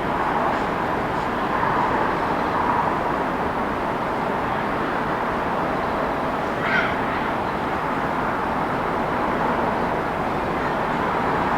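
City street traffic noise: a steady wash of passing vehicles, with a brief high-pitched squeak a little over halfway through.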